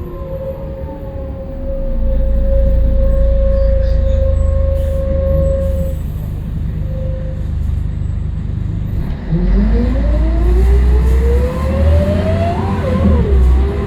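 Scania L113CRL bus under way: a low engine rumble with a steady whine, then a whine that climbs steadily in pitch for several seconds as the bus accelerates, breaking off and dropping near the end.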